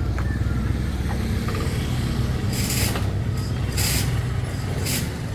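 A motor vehicle engine running steadily, with several short bursts of hiss about halfway through and near the end.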